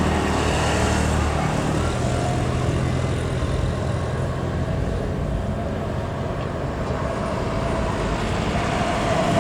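Engine noise from passing vehicles: a steady rumble with a low hum in the first second or so, and a whine that builds near the end.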